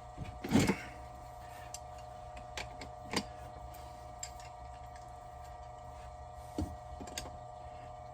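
Scattered light clicks and knocks from pipe fittings being handled and glued, the loudest about half a second in, over a steady hum.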